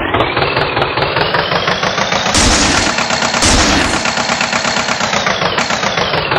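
Tractor engine sound effect running with a fast, knocking rattle. Two louder hissing bursts come a little past the middle.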